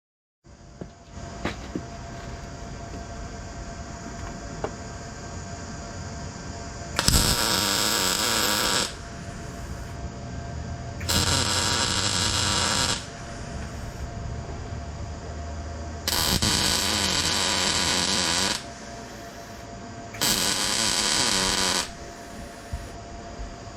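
A welder laying four tack welds, each a crackling burst of about two seconds that starts and stops sharply, joining a sheet-steel inner guard to the body. A steady electrical hum runs between the welds.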